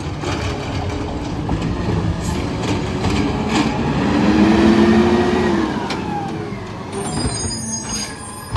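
Garbage truck running, its engine rising to a louder, higher note around the middle and then easing off, with a few short knocks.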